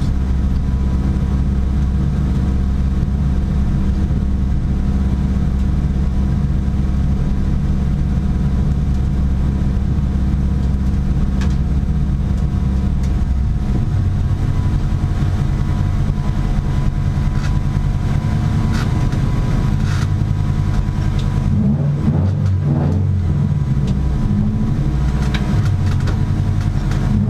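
Competition car's engine heard from inside its stripped, roll-caged cabin, running steadily. About halfway through the note drops and turns less even as the car slows, with a few sharp clicks and rattles.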